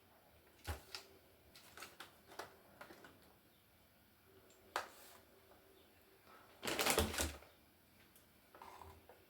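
Hard plastic and metal laptop parts clicking and knocking as they are handled and pulled apart, in scattered single clicks, with a longer rattling clatter about seven seconds in.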